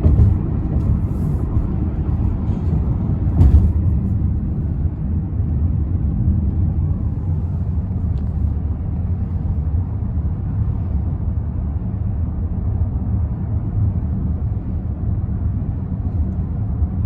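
Steady low road and engine rumble heard from inside a moving car, with one brief thump about three and a half seconds in.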